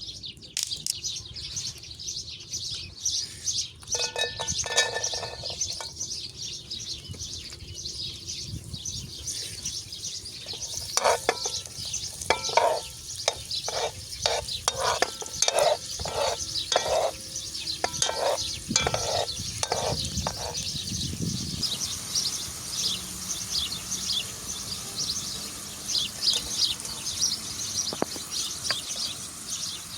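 Birds chirping steadily throughout. A metal utensil knocks and scrapes against a cooking pot: a short clatter about four seconds in, then a run of ringing strokes, one or two a second, for about ten seconds in the middle.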